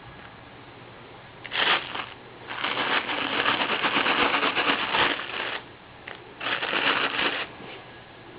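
A kitten at play, making rustling and scratching noise in three bursts: a short one, then a long one of about three seconds, then another of about a second.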